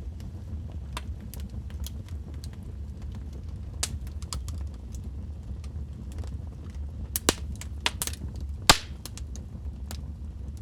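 Wood fire crackling in a fireplace: burning logs give scattered sharp pops and snaps over a steady low rumble of flames, with a cluster of louder pops about seven to nine seconds in, the loudest near the end of that run.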